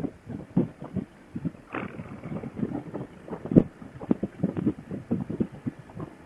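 Wind buffeting a motorcycle rider's helmet-headset microphone at speed, with the motorcycle engine running underneath, heard through a Bluetooth helmet intercom. There is one sharp knock about three and a half seconds in.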